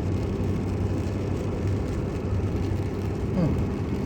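Steady road and engine noise heard inside a moving car's cabin on a wet road, with a brief falling tone about three and a half seconds in.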